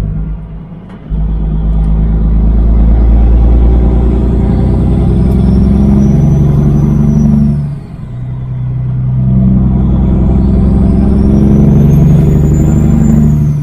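Semi truck's Caterpillar diesel accelerating hard under a full 80,000-pound load: the engine note climbs through one gear, drops for a shift about eight seconds in, then climbs again through the next gear with a rising turbo whistle, dropping again for another shift near the end.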